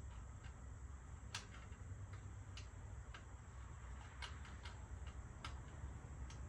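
Scattered light clicks and taps, irregularly spaced, from bicycle parts and hardware being handled and fitted, the sharpest about a second and a half in and a quick cluster past the middle, over a low steady hum.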